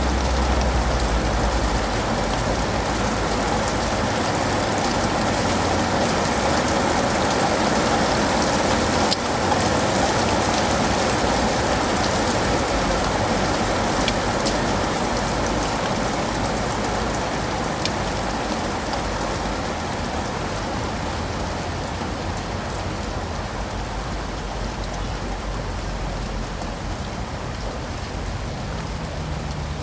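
Steady rain falling, a dense even hiss with scattered drop ticks, easing slightly in the second half.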